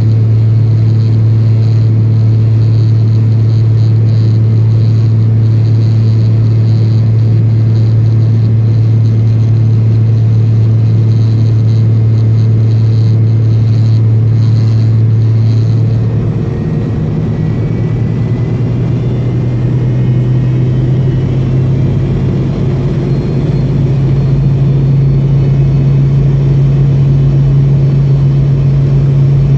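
Cabin drone of an MD-80's rear-mounted Pratt & Whitney JT8D engines, a steady low hum while taxiing onto the runway. A little over halfway through, the engines spool up for the takeoff roll: the hum steps up in pitch, the rumble grows and a faint rising whine comes in.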